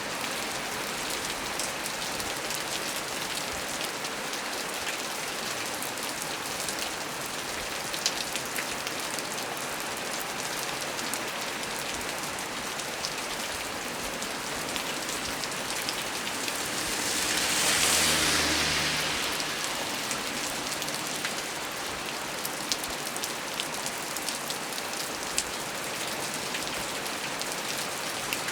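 Heavy rain falling steadily, with individual drops tapping sharply close by. About seventeen seconds in, a hissing swell builds and fades over about three seconds.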